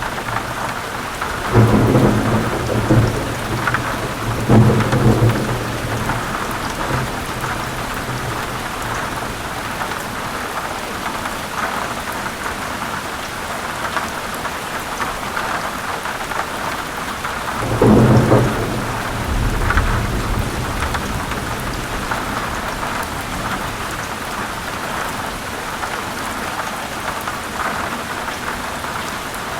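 Steady heavy rain falling, with rolls of thunder rumbling twice: one at about two to five seconds in, another at about eighteen seconds.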